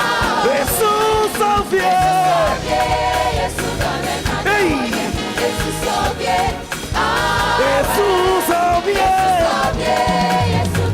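Live gospel band playing an upbeat song with singing, a melody line sliding between notes over a moving bass.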